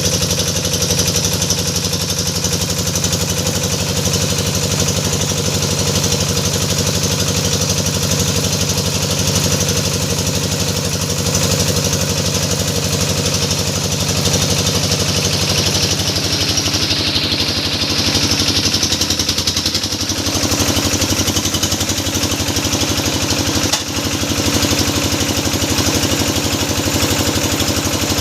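Engine of a hydraulic deep-well drilling machine running steadily. Its note shifts around the middle, and the level dips briefly near the end.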